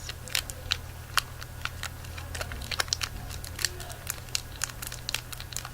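Close-up crinkling of a Cow Tales candy wrapper being handled, in many irregular sharp crackles, over a steady low hum.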